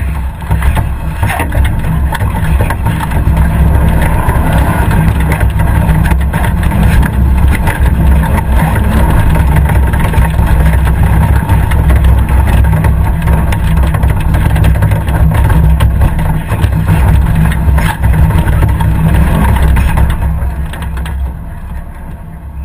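Competition safari 4x4's engine running under load as the car drives over rough off-road ground, heard from a camera mounted on the vehicle. The engine note eases and the sound gets quieter near the end as the car slows.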